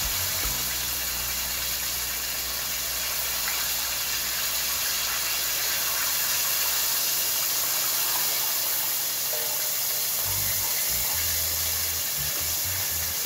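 Chicken pieces frying in hot grease: a steady sizzle that holds level throughout.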